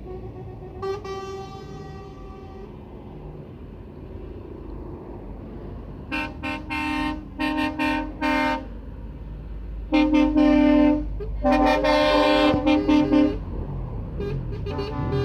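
Convoy truck horns sounding over the rumble of passing traffic: one held note about a second in, then a run of short repeated blasts from about six seconds, loudest between about ten and thirteen seconds, and more horn near the end.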